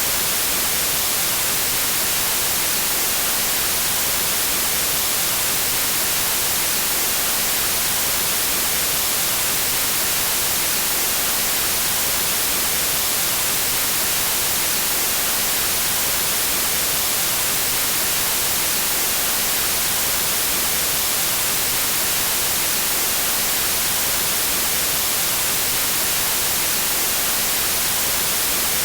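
Pure white noise: a steady, even hiss with no change or events.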